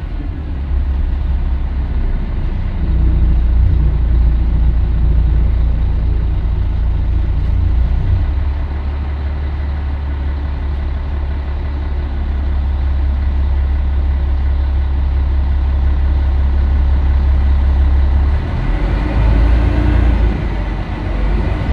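Scania L113CRL bus's straight-six diesel engine running, a steady deep drone whose note changes about eight seconds in and again near the end.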